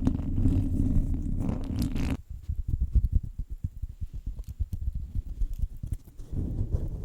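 Fingers scratching directly on a microphone, a dense, close scratching noise heavy in the low end. About two seconds in it changes to rapid, softer low rubs and thuds for about four seconds, then the dense scratching starts again near the end.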